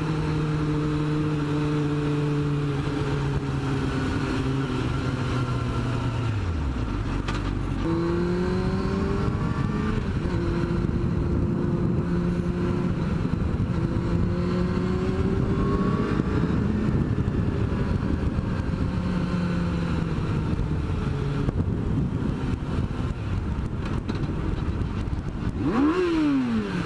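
Motorcycle engine running under way: its note drops about six seconds in as the bike slows, rises and falls gently through the middle, then revs up sharply and falls away again near the end.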